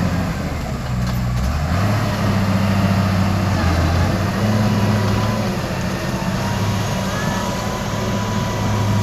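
Heavy diesel engine of road-works machinery running steadily, its pitch shifting up and down every second or two as it works.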